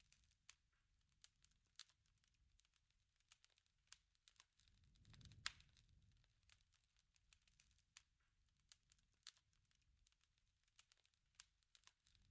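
Faint wood fire crackling: scattered irregular snaps and pops over a low murmur of flame, which swells with one louder pop about five seconds in.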